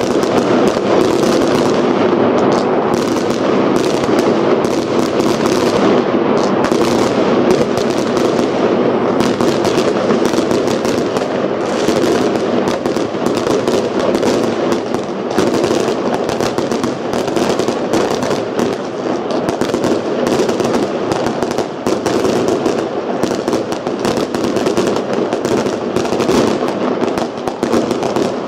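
Loud fireworks and firecrackers going off without a break, many bangs and crackles overlapping.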